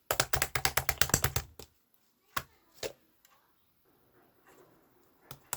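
A fast run of sharp clicks for about a second and a half, then two single clicks and a faint rustle, with rapid clicking starting again near the end.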